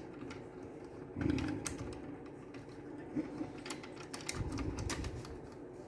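Scattered light clicks and a couple of dull knocks of plastic and metal parts being handled: a cassette tape mechanism being worked back into its slot in a cassette deck's chassis.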